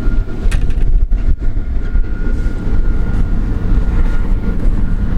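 Strong wind buffeting the microphone: a loud, uneven low rumble, with a faint steady high whine beneath it and a few brief clicks in the first second or so.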